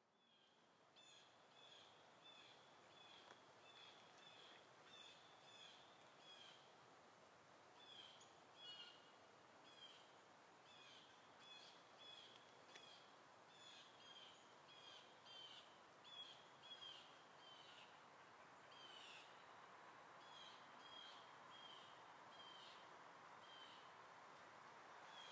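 Faint bird chirping over quiet outdoor ambience: short, high chirps repeated about twice a second, with brief pauses.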